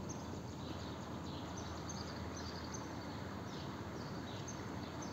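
A small bird chirping over and over: short, high, falling notes about twice a second, over a steady outdoor background hiss.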